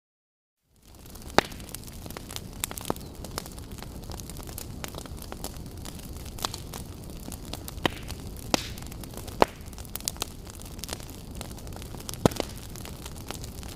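Wood fire burning in a fireplace: a steady low rumble and hiss with scattered sharp crackles and pops. The sound is cut out for about the first second, then fades back in.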